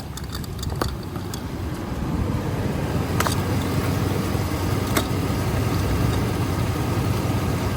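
1998 Chevy C/K 1500's 5.7 L V8 idling steadily, growing louder over the first two seconds, with a few sharp clicks on top.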